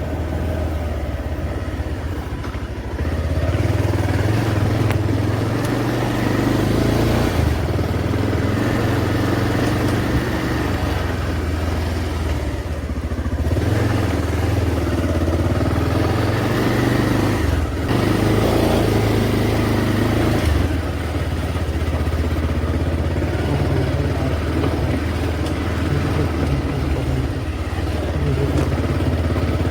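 Motorcycle engine running while being ridden, its note shifting with the throttle, under a steady rush of riding noise.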